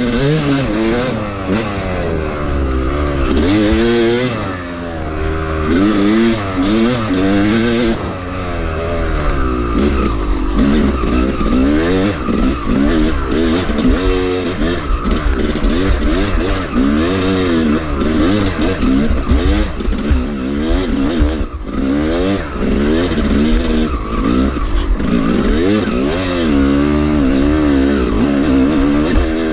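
Two-stroke dirt bike engine revving up and down over and over while riding, its pitch rising and falling every second or two over a steady low rumble.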